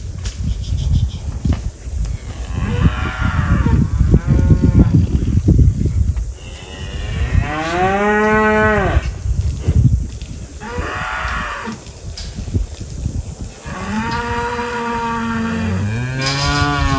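Cattle mooing: about five drawn-out calls, one after another, the last one lower-pitched, over a steady low rumble.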